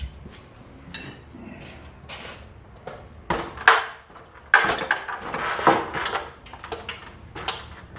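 Metal parts and tools clinking and clattering as they are handled, an irregular run of knocks and rattles that is busiest in the middle.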